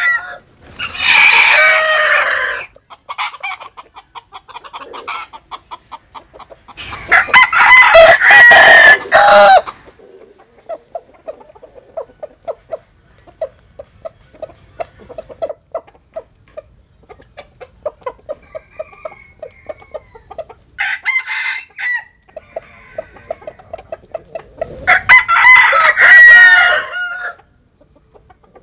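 Bantam roosters crowing: three long crows, one right at the start, one about a quarter of the way in and one near the end, with a shorter call in between. Quick runs of short, soft clucks fill the gaps.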